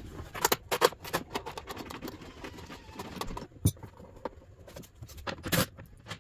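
Irregular clicks and knocks of hands working behind a car's tail light housing in the trunk, plastic and metal parts being handled and bumped, with a few sharper knocks among them.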